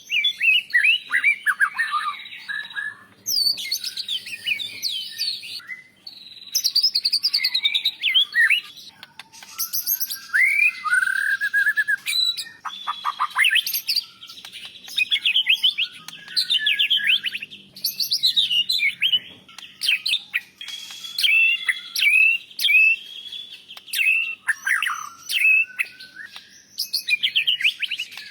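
White-rumped shama singing a loud, varied song of rapid whistles, sweeps and trills, with imitations of other birds woven in. It comes in bursts of two or three seconds separated by short pauses.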